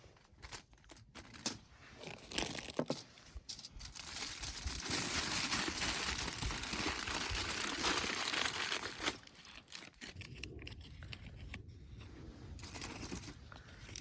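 Packaging being handled: scattered rustles and clicks, then about four seconds of steady crinkling that stops suddenly, followed by lighter rustling.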